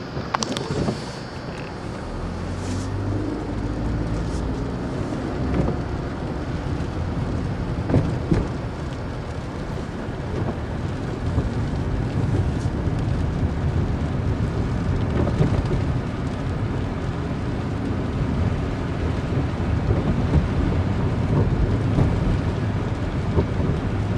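A car driving: steady engine hum and road noise, with scattered knocks and bumps.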